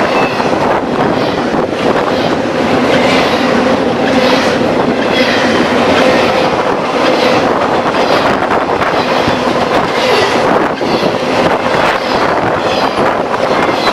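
A train passing close by on the mainline, with steady, loud rolling noise and a hum underneath. The wheels click over the track at regular intervals.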